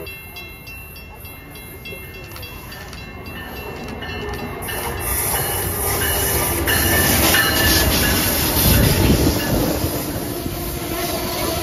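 Amtrak Siemens ACS-64 electric locomotive and its passenger coaches rolling in alongside the platform: the rumble and wheel-on-rail noise grow steadily louder as the locomotive approaches, are loudest as it passes a little past halfway through, and carry on as the coaches go by.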